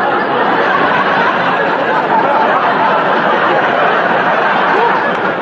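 Studio audience laughing together, a dense wave of laughter that holds steady throughout.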